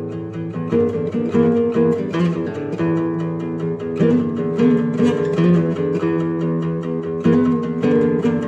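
Guitar played solo, improvising riffs with plucked notes changing in quick succession.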